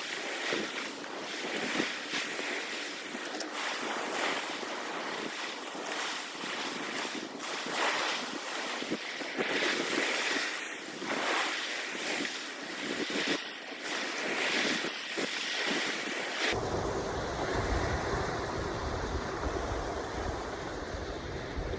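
Surf washing in surges every couple of seconds with wind. About three quarters of the way in, the sound changes abruptly to a low wind rumble on the microphone.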